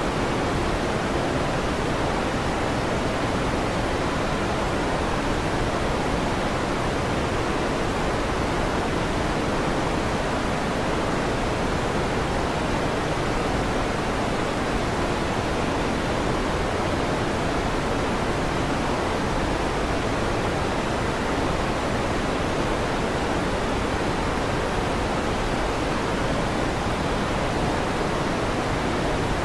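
Electric fan running steadily, an even hiss that does not change.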